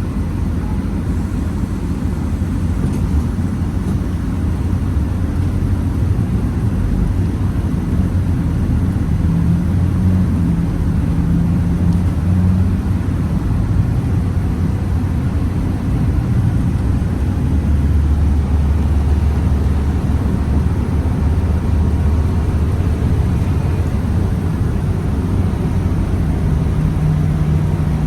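Scania Citywide bus's compressed-natural-gas engine running as the bus drives, a steady low drone whose note shifts in pitch several times as engine speed changes.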